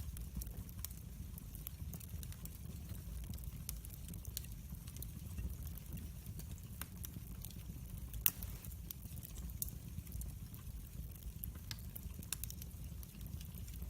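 Log fire burning in a fireplace: irregular sharp crackles and pops over a low steady rumble, with one louder pop about eight seconds in.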